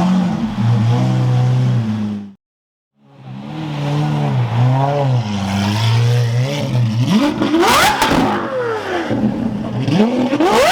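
Sports car engines being revved in repeated short blips, the pitch rising and falling, with the sound cutting out completely for about a second a little over two seconds in. From about seven seconds in, engines climb steeply in pitch under hard acceleration, with sharp cracks from the exhaust.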